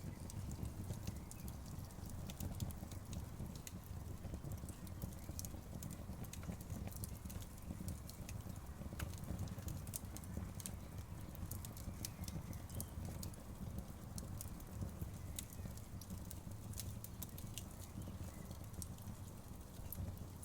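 Outdoor wood bonfire crackling: many quick sharp pops and snaps, denser in the first half, over a steady low rumble of the burning fire.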